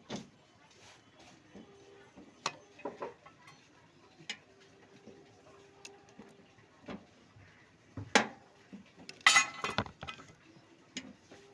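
Scattered metallic clicks and clinks of tools and metal parts being handled, with a louder knock about eight seconds in and a short rattling clatter just after.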